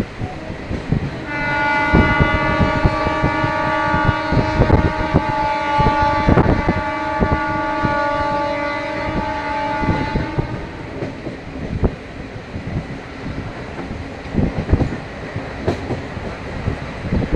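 A train's horn sounds one long, steady note for about nine seconds, starting a second or so in, over the rattle and clack of wheels running over rail joints.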